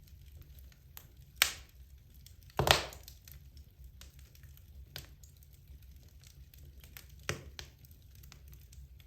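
Logs burning in a fireplace: a wood fire crackling with many small ticks and three louder pops, about one and a half, two and a half (the loudest) and seven seconds in.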